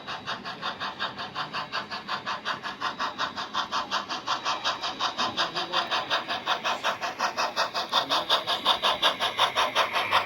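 On30 model train running: a fast, even rhythm of about seven beats a second, growing louder.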